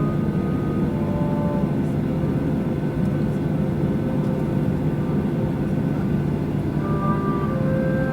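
Steady jet airliner cabin noise: a continuous low rumble of engines and airflow heard from inside the passenger cabin.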